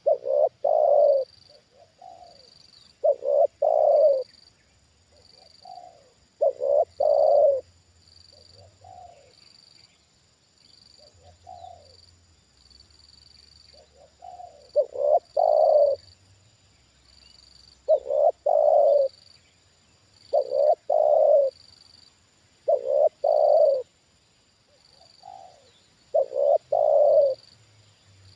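Spotted dove cooing: loud phrases of a few low coos, repeated about every two to three seconds, with quieter short coos between.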